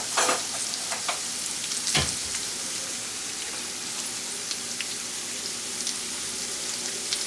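Pork frying in a hot pan, a steady sizzle with a few utensil clicks and a stronger knock about two seconds in; the pan is hot enough that the pork is starting to burn.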